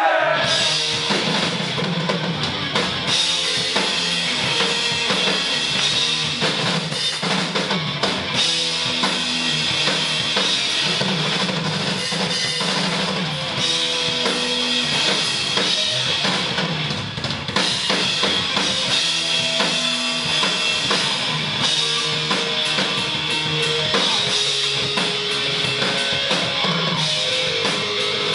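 A live rock band playing an instrumental passage: a pounding drum kit with bass drum and snare under distorted electric guitar.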